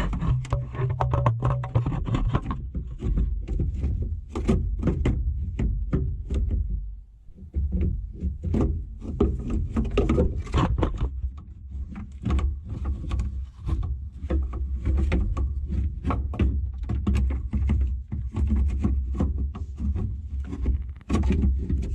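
Irregular clicks, knocks and clatter of hand tools and metal parts being worked on the truck's air-conditioning fan assembly, over a steady low rumble, with a short lull about seven seconds in.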